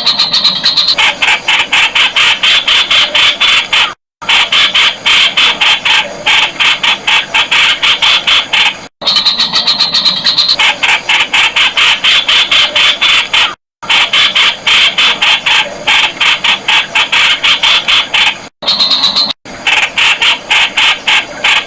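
Streak-eared bulbul calling: a loud, rapid run of harsh repeated chirps, cut off by brief dead-silent gaps several times.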